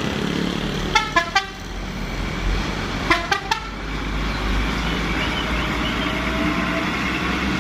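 Truck horn giving two quick runs of three short toots, the second run about two seconds after the first, over a steady engine and traffic rumble.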